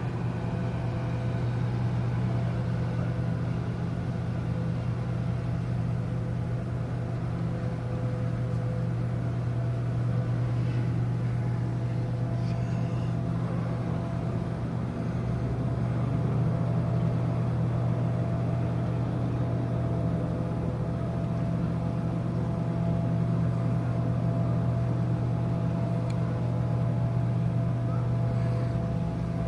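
Steady low drone of a cruise ship's machinery, with a constant hum and a few faint steady higher tones.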